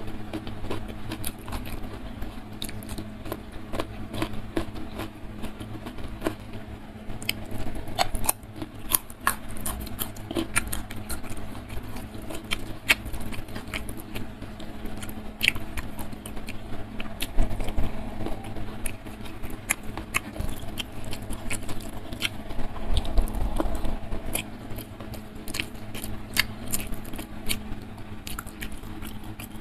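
Close-miked chewing and lip smacking, with many small sharp mouth clicks and wet smacks, while mouthfuls of rice with spicy chicken liver and gizzard sambal are eaten by hand. A faint steady low hum runs underneath.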